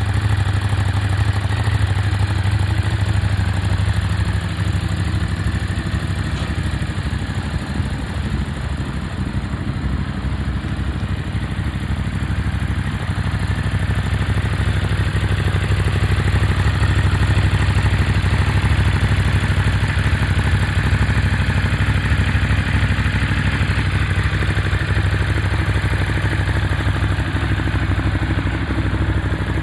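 Ducati Monster 821's 821 cc Testastretta V-twin engine idling steadily.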